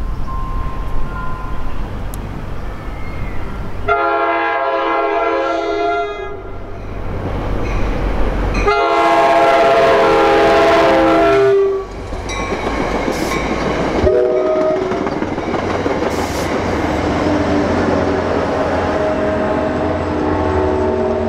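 Horn of an approaching New Jersey Transit push-pull commuter train, a chord sounded in two long blasts and then a short one, followed by the train passing with steady rumbling wheel noise and clicking over the rail joints as the diesel locomotive pushing at the rear comes by.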